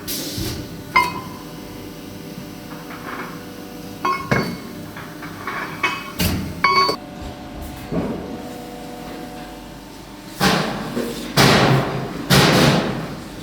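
Metal parts being handled in a workshop: scattered sharp clanks and knocks, some ringing briefly. Near the end come three louder, short rushing bursts.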